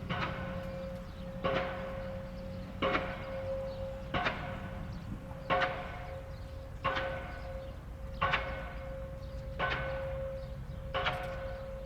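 Diesel pile hammer pounding a steel H pile into the ground, a sharp clanging blow about every second and a half, nine in all, each ringing like a bell. A steady hum and low engine rumble run under the blows.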